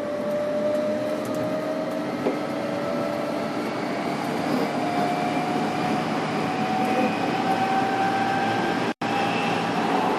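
Tokyo Metro 06 series electric train heard from on board while running, with a motor whine that rises slowly and steadily in pitch as the train gains speed, over wheel and track rumble. The sound cuts out for an instant about nine seconds in.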